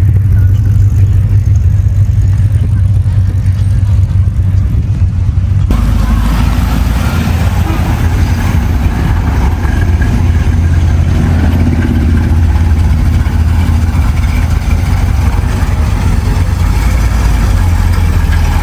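Classic car engines rumbling loudly, idling and revving as cars pull out. The sound changes abruptly about six seconds in, with more higher-pitched noise over the low rumble.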